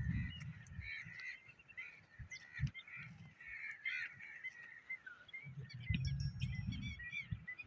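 A flock of birds calling over and over, with higher chirps among the calls. A low rumble sits on the microphone at the start and again from about five and a half seconds in.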